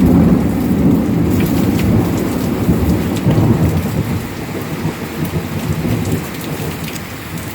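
Thunderstorm: rain falling steadily with thunder rumbling through it.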